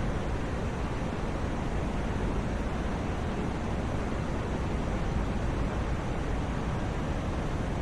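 Continuous white noise for sleep: an even, unbroken hiss, fuller in the low range, with no change in level.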